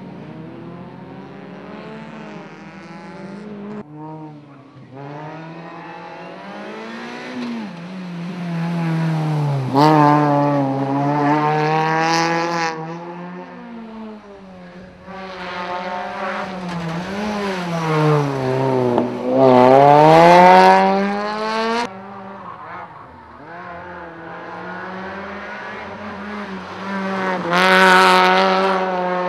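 Rally cars passing one after another on a tarmac circuit, their engines revving hard, rising and dropping in pitch through gear changes and lifts. The sound changes abruptly between passes, with the loudest passes about ten, twenty and twenty-eight seconds in.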